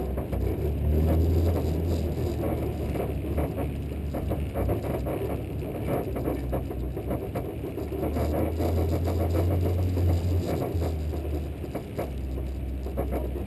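Rally car engine running, its low drone swelling and easing with load, with rattling over it.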